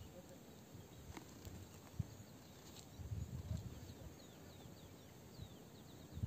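Quiet outdoor ambience: small birds chirping faintly in short, repeated falling notes, with low rumbles on the microphone around the middle and a single click about two seconds in.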